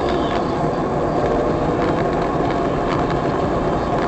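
Vehicle running steadily, an even rumble and hiss with occasional short clicks or rattles.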